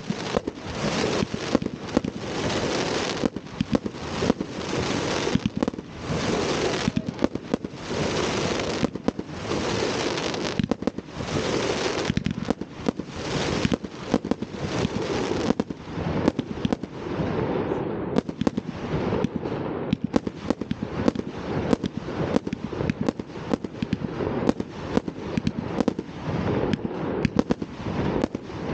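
Fireworks going off without a break: hissing, crackling bursts about once a second, turning about halfway through into a quick, dense run of sharp bangs.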